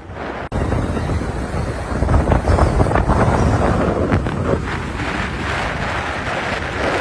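Wind buffeting the microphone: a gusty rumble that jumps abruptly louder about half a second in.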